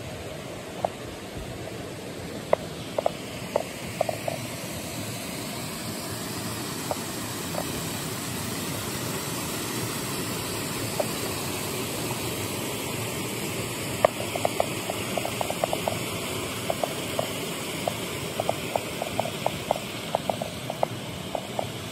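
Kibune River's mountain stream rushing steadily over rocks. Irregular sharp taps sound over it, a few early and many close together from about halfway through.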